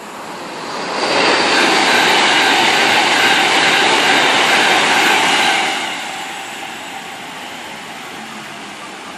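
A train passing through at speed: a rush of rail and air noise builds quickly about a second in, stays loud for about five seconds, then drops off sharply as the train moves away.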